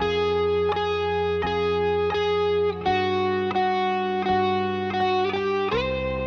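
Instrumental music on ukulele, acoustic guitar and electric guitar playing together: plucked notes struck about every three-quarters of a second over held lower notes, with a chord change near the end.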